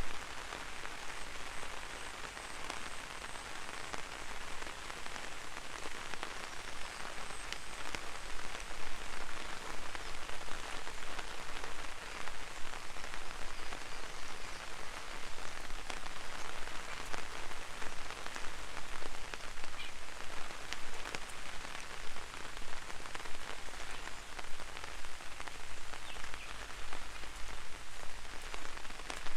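Gentle rain falling on an umbrella: a steady patter made of many small, separate drop taps.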